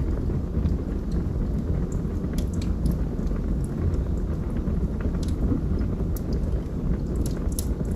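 Log fire burning, a steady low rumble of flames with frequent sharp crackles and pops scattered throughout.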